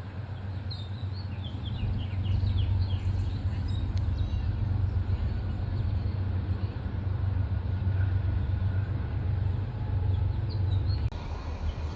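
A steady low rumble with birds chirping high above it in short bursts. The rumble drops off about eleven seconds in.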